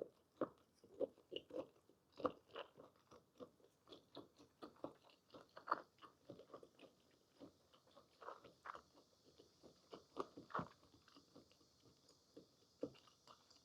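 Faint close-miked chewing of blanched squid: soft, irregular wet clicks and smacks of the mouth working the tender, rubbery flesh.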